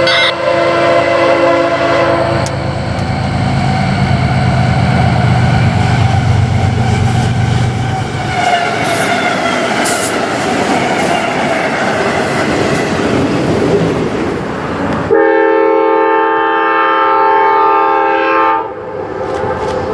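A train passing close by, with the low drone of a locomotive engine and steady rail noise. About fifteen seconds in, a multi-note locomotive air horn sounds one steady blast lasting about three seconds, then cuts off.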